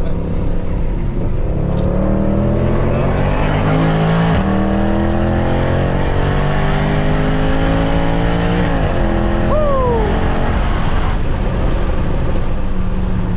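Mercedes C63 AMG's 6.2-litre V8, with secondary cats and resonators deleted, pulling hard on track. Revs climb, dip briefly at a gear change about four seconds in, climb again, then fall away as the driver lifts near the middle and run on at lower revs.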